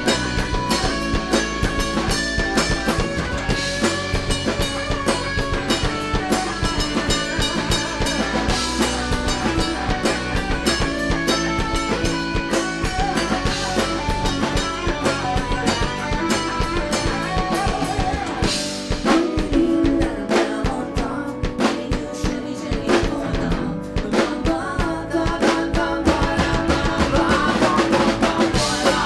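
Live rock band playing, with a drum kit keeping a steady beat under the other instruments.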